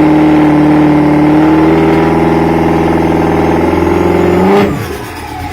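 Duramax diesel truck engine running hard under throttle, its note holding steady and then climbing slowly in pitch before falling away suddenly near the end.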